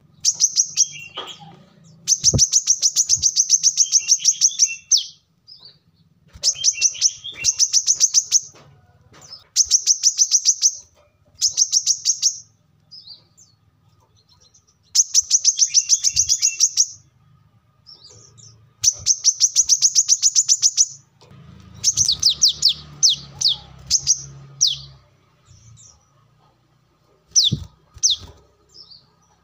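Brown-throated sunbird (kolibri kelapa) singing: rapid high trills of fast repeated notes in bursts of one to two seconds with short pauses between, breaking into a few separate short notes near the end.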